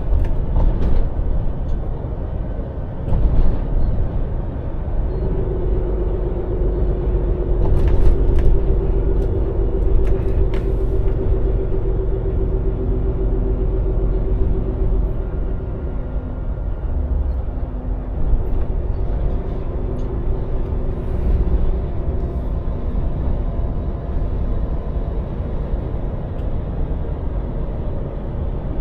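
Scania lorry on the move: a steady low engine and road rumble, with a steady held tone that comes in for about ten seconds and returns briefly later. A few sharp clicks sound near the middle.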